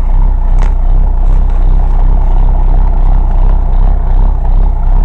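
International DTA360 six-cylinder diesel of a 1993 Blue Bird bus idling steadily with a deep, even throb, minutes after a hard cold start in freezing weather with thick oil and no glow plugs.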